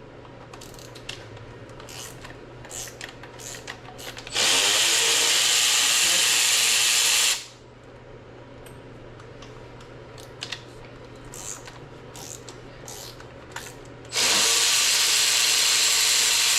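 Power tool run in two steady bursts of about three seconds each, backing out bolts on an LS engine block being torn down. Between the bursts come the clicks and clinks of hand tools and loose parts.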